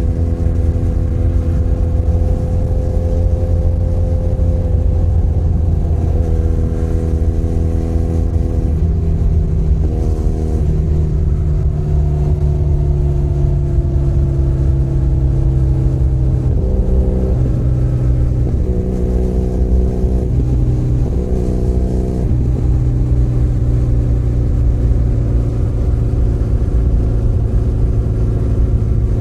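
Benelli Leoncino 500 Trail's parallel-twin engine running under way with a steady low rumble. Its pitch steps up about a third of the way in and sags slowly, then changes up and down several times in quick succession past the middle as the throttle is worked.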